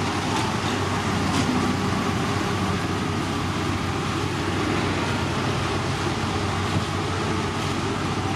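Heavy road-construction machinery running steadily, a continuous engine drone with a low hum.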